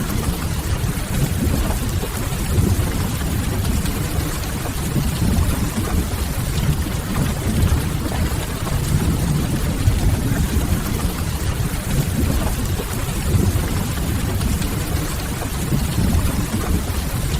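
Steady rain ambience: an even hiss of rain over a low rumble, continuous and unchanging.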